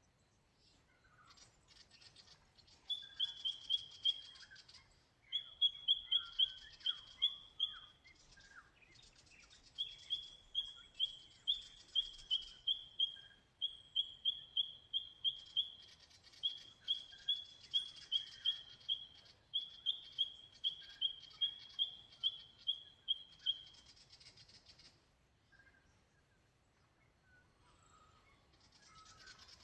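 Birds singing: one bird repeats a rapid series of short, high, downward-slurred notes in long runs, about four or five a second, while other birds chirp and twitter more faintly. The runs stop a few seconds before the end, leaving only the faint chirping.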